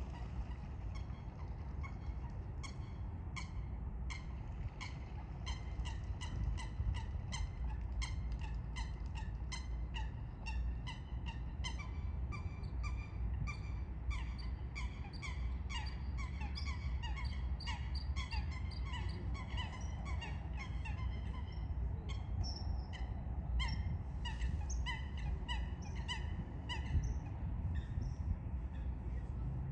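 Several birds calling together: many short, sharp notes repeated several times a second and overlapping, over a steady low rumble.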